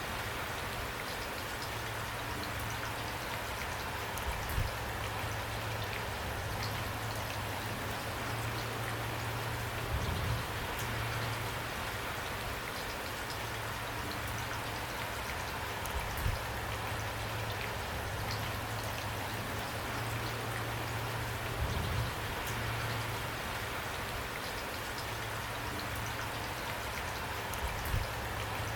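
Steady rain falling, with a few brief low thuds of heavier drops landing about every six seconds.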